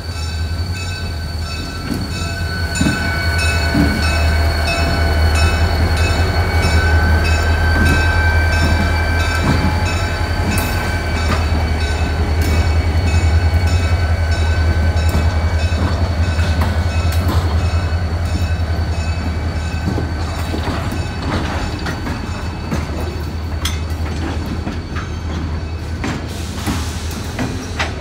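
RJ Corman diesel locomotive and loaded coal hopper cars rolling slowly past. The locomotive's engine drone swells through the middle as it goes by, over a steady high wheel squeal and scattered clicks of wheels on the rails.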